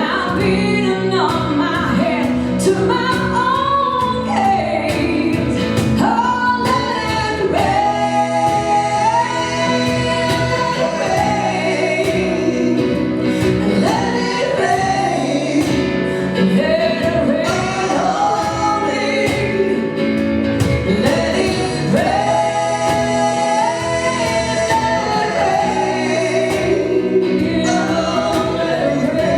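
A song performed live: a voice singing held and gliding notes over steady band accompaniment.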